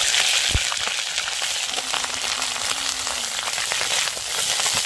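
Broccoli florets sizzling steadily in hot mustard oil in an aluminium kadai, a loud, even hiss of frying. A single low thump comes about half a second in.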